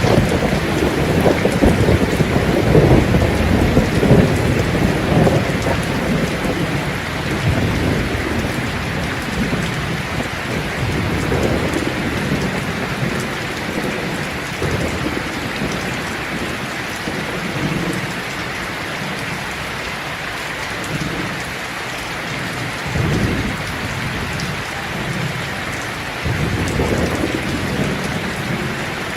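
Steady heavy rain hissing, with low rolling rumbles of thunder, strongest in the first few seconds and swelling again twice near the end.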